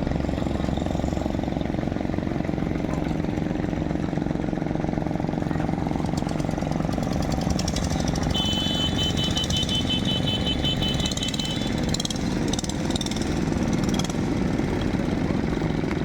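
Longtail boat engine running steadily at low revs. About halfway through, a high-pitched tone sounds for roughly three seconds over it.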